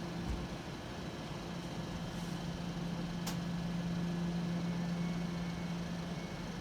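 Class 720 electric multiple unit humming steadily at one pitch over a background rush, with a single sharp click about three seconds in.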